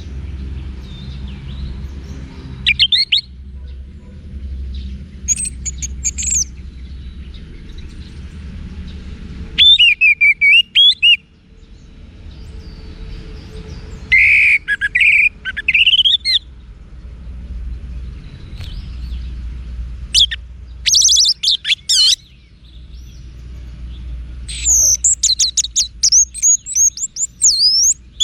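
Orange-headed thrush singing: bursts of fast, varied whistled phrases every few seconds, about six in all, with the longest and densest run near the end. A faint low hum lies underneath.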